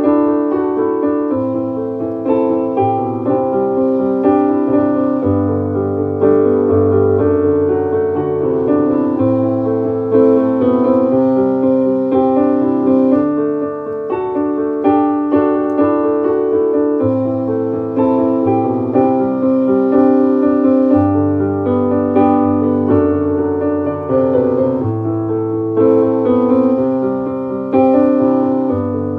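Instrumental piano or keyboard music: chords over sustained bass notes that change every second or two.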